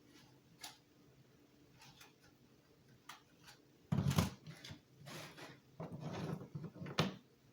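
Packaging and small parts being handled: scattered light clicks, a solid knock about four seconds in, then a couple of seconds of rustling and a sharp click near the end.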